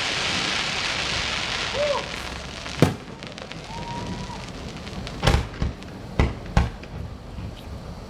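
Aerial fireworks: a hissing crackle of burning stars over the first two seconds or so, then a sharp bang a little under three seconds in and a run of bangs in quick succession from about five seconds on.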